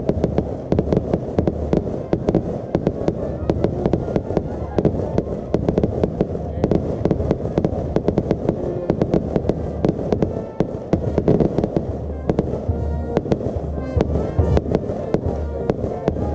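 Fireworks display: a dense barrage of sharp bangs, several a second, over a continuous low rumble.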